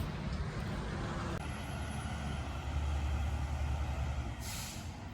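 Garbage truck's diesel engine running on the street, its rumble swelling for a couple of seconds in the middle, with a short hiss of air brakes about four and a half seconds in.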